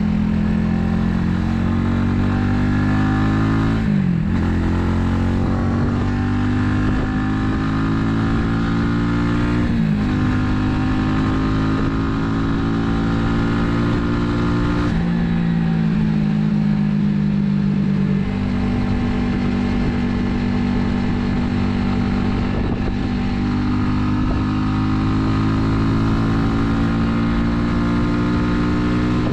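Italika 250Z motorcycle engine under way, pulling through the gears: its pitch climbs steadily and dips sharply at each gear change, several times over, then holds steadier near the end.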